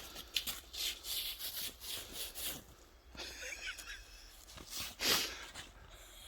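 Irregular crunching and scraping in snow, several short crunches a second, with a louder crunch about five seconds in.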